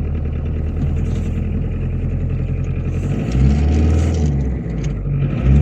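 Car engine running under way, a steady low hum that grows louder about three seconds in as the car pulls harder, eases briefly and rises again near the end.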